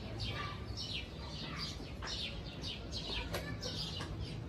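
Small birds chirping busily, many short, quick downward chirps overlapping one another, over a low steady background rumble.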